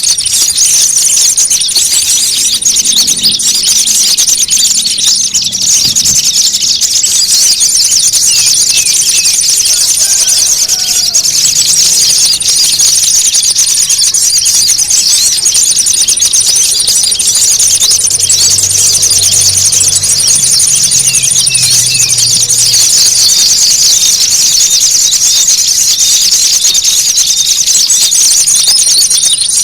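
A dense, unbroken chatter of small birds' agitated calls, a bird-trapping lure recording meant to draw in small birds, with a thin high steady tone that drops out and returns several times.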